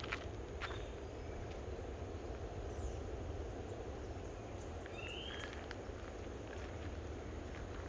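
Footsteps walking along a forest trail over a steady low outdoor rumble, with a bird giving a short rising call about five seconds in.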